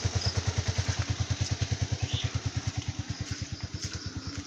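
Motorcycle engine idling steadily, a fast, even putter of about a dozen beats a second, growing a little fainter toward the end.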